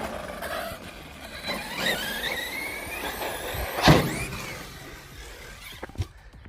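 Electric brushless motor of an RC stunt truck whining as it revs, its pitch gliding up and down. There is a sharp thump about four seconds in and a lighter knock near the end.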